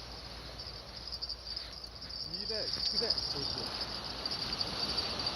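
Steady high-pitched chirring of insects, with a faint voice murmuring briefly about two and a half seconds in.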